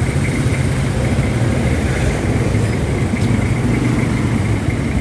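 Honda Click 125i scooter's single-cylinder engine running steadily, with no change in pitch.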